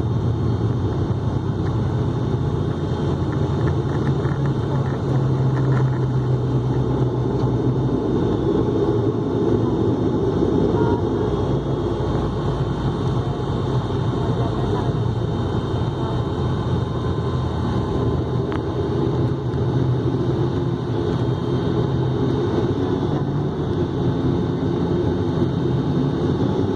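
Steady rumble of an airliner's jet engines and rushing air, heard from inside the passenger cabin.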